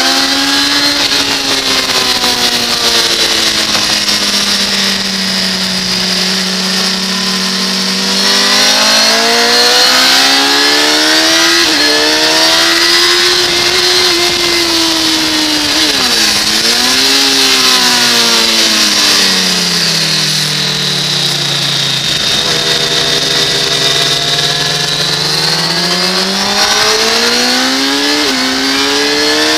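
2006 Kawasaki ZX-10R's inline-four engine under hard riding, its pitch climbing as it accelerates and sinking as it rolls off for corners several times over, with a few sudden steps in pitch at gear changes. A steady rush of wind over the microphone runs underneath.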